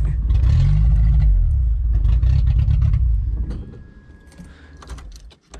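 Dacia 1310's four-cylinder engine, running on paint thinner poured into the tank, running unevenly with some revving, then dying away about three seconds in. Light clicks and rattles follow.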